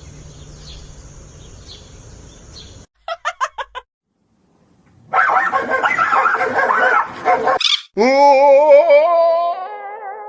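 A dog's voice: a quick run of short yips about three seconds in, then a loud stretch of barking, then a long, wavering call that slowly falls in pitch.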